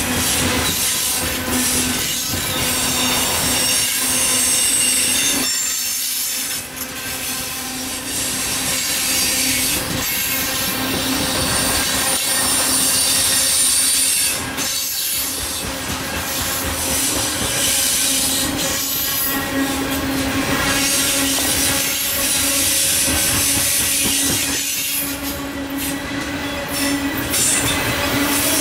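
Loaded coal hopper cars of a freight train rolling past, steel wheels squealing on the rails over the steady rolling noise, with a continuous whining tone and higher shrill tones.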